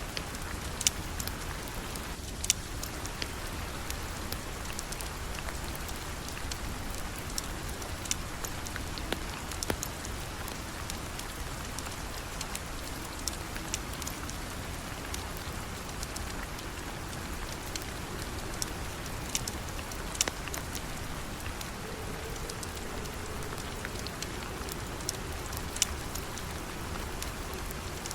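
Steady rain falling, with scattered sharp pops every second or two.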